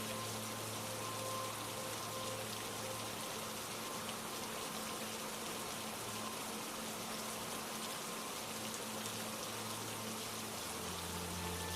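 Steady rain, a continuous even hiss of falling drops, with soft sustained low notes of ambient music held underneath. The held notes change to a new chord near the end.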